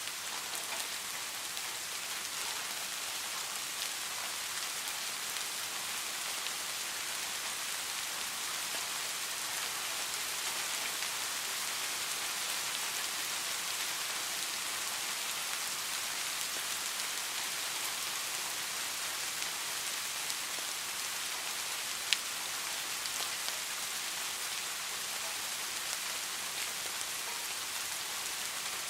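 Steady rain, an even hiss of falling drops, with one sharp single tick about three-quarters of the way through.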